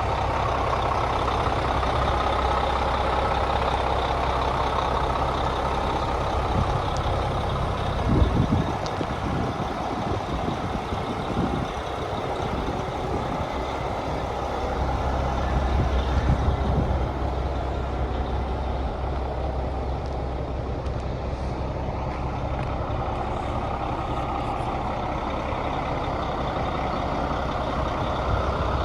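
The Cummins M11 diesel engine of a 1996 International 8100 truck running steadily, with a brief louder spot about eight seconds in.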